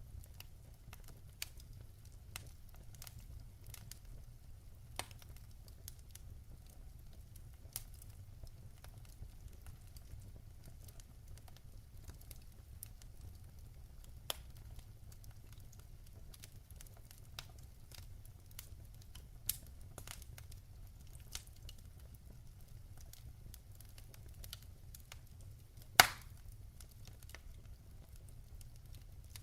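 Wood fire in a fireplace crackling, with scattered sharp pops from the burning logs over a low steady rumble, and one much louder pop about 26 seconds in.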